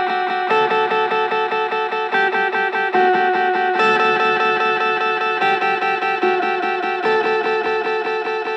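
Electric guitar, a Fender Telecaster, played through a Boss DD-3 digital delay pedal: layered sustained notes chopped into fast repeating echoes, about seven pulses a second. The pitch of the layered notes shifts every second or so.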